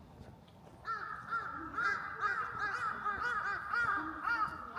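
Birds calling: a rapid, overlapping series of short arched calls that starts about a second in and keeps going, several calls a second.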